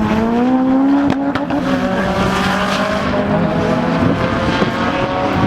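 Subaru STI's turbocharged flat-four engine running hard under load, its note rising slightly in the first second and then holding steady. The car has a leaking up-pipe flex section, which the owner says causes turbo lag and keeps it well short of full boost.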